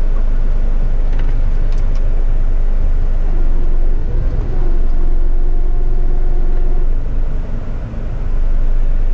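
Front-lift waste truck's diesel engine running steadily, heard from inside the cab. A faint steady tone sounds over it from about three and a half to seven seconds in.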